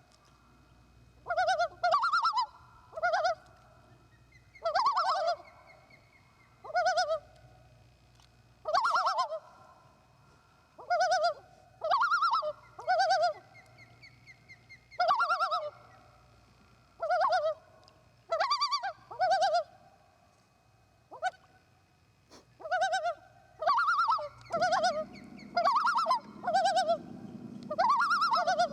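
Common loons calling over and over at close range: short, loud calls every second or two. A low steady rumble joins near the end.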